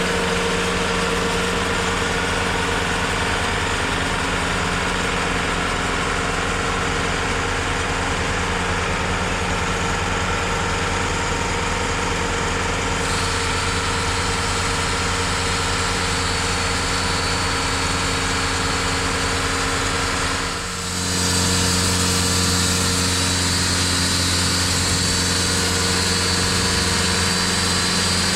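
TimberKing 2520 portable sawmill's engine running steadily. About two-thirds of the way through the sound drops briefly, then carries on with a high whine added.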